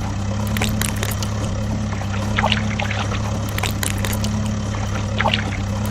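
A vehicle engine running steadily with a low, even drone, under a rushing, pouring noise and scattered clicks, as of sand or gravel being tipped.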